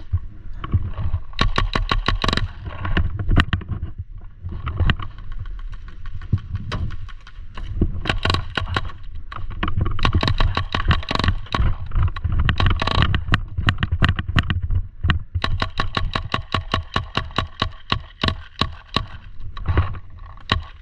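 Paintball markers firing in rapid strings of sharp pops, several shots a second, over a steady low rumble of movement and wind on a helmet-mounted action camera.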